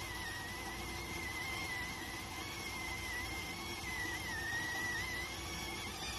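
Electric rice cooker whistling while it cooks: a thin, high, steady whistle that wavers slightly in pitch, over a steady hiss.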